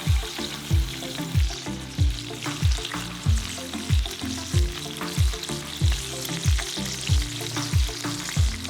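Food sizzling as it fries, under background music with a steady, even beat of deep thumps about every two-thirds of a second.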